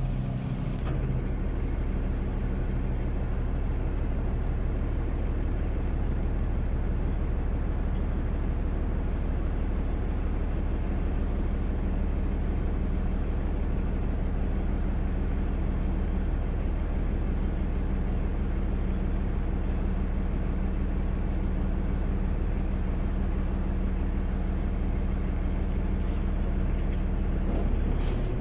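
Automated side-loader garbage truck's engine running steadily with an even low drone. Two short sharp clicks come near the end.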